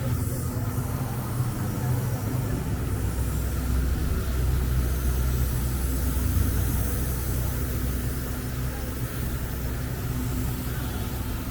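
Steady low rumble of a moving vehicle, like a car's engine and road noise.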